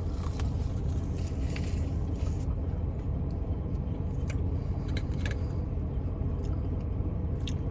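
Steady low rumble of a car, heard from inside the cabin, with scattered small clicks of eating and handling food packaging.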